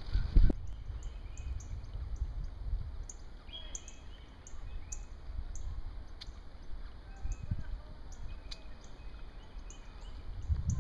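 Birds chirping: a long run of short, high, falling chirps, several a second, over a low outdoor rumble. Wind buffets the microphone for the first half second.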